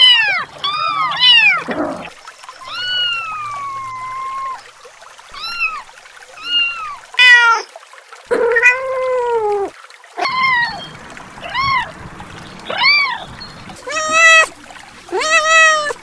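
Kittens meowing over and over: a dozen or more high, short meows, each rising and falling in pitch, with two longer drawn-out meows about three and eight seconds in.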